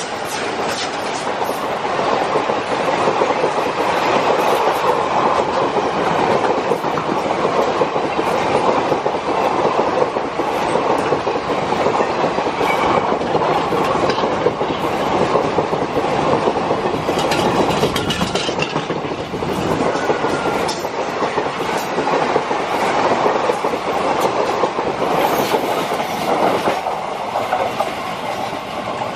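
Express passenger train's coaches passing close by at speed: a steady rumble with the clickety-clack of wheels over rail joints, easing off near the end as the last coach goes by.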